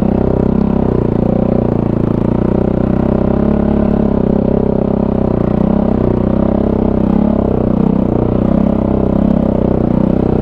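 Kawasaki KFX450R ATV's single-cylinder four-stroke engine running at a steady moderate speed while riding, its pitch rising and falling slightly with the throttle.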